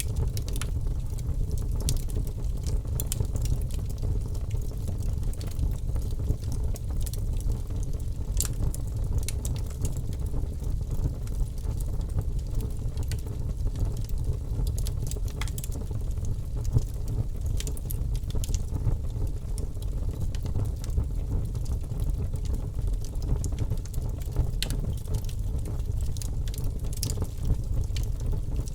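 Wood fire crackling in a fireplace: a steady low rumble of burning with frequent small irregular pops and snaps throughout.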